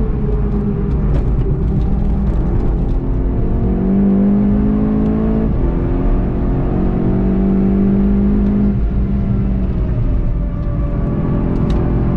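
Volkswagen Golf 7.5 GTI TCR's turbocharged 2.0-litre four-cylinder engine, heard inside the cabin while it is driven hard. The engine pitch rises and falls with braking, acceleration and gear changes, with a sharp drop about five and a half seconds in, over steady road rumble.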